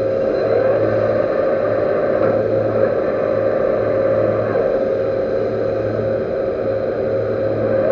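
Metal lathe running steadily during thread cutting on a servo motor shaft. It gives a steady hum, with a low throb that pulses about once a second.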